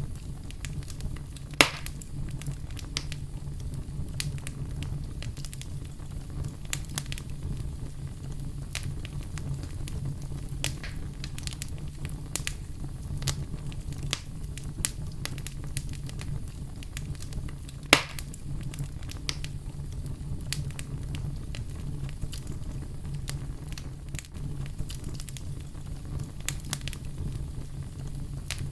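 Wood fire crackling, with scattered small snaps over a low steady rumble. Two louder pops stand out, one near the start and one about two-thirds of the way through.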